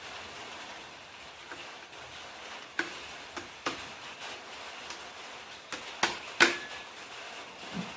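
Scattered metallic clinks and knocks of engine parts and hand tools being handled while a Honda GL100 motorcycle engine is assembled, the loudest about six and a half seconds in with a short ringing note after it.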